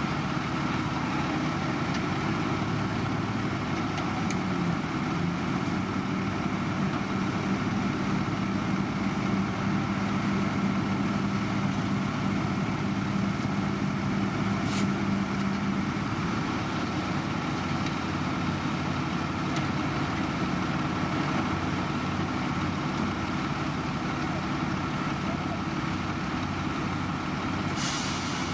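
Heavy diesel construction machinery running steadily, an even engine drone with a steady hum over it for about ten seconds in the first half. A short hiss comes near the end.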